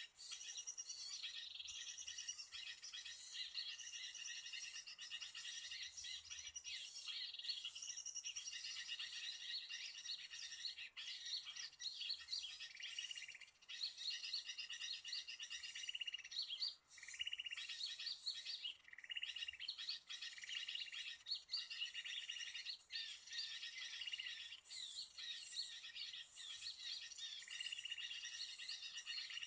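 Small birds chirping and trilling continuously in a dense, high-pitched chorus.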